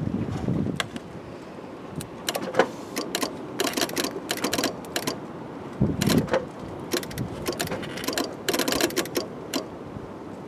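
Bursts of rapid, irregular mechanical clicking and rattling with a few knocks, as a car fails to start on a loose battery ground cable; no engine catches.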